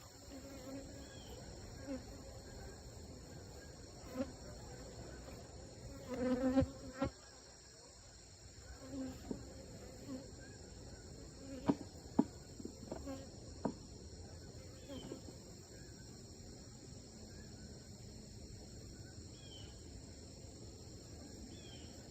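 Honeybees buzzing as they fly past around a hive, each pass a brief droning buzz, with a louder, closer one about six seconds in. A few sharp knocks come about twelve seconds in, and a steady high-pitched drone runs underneath.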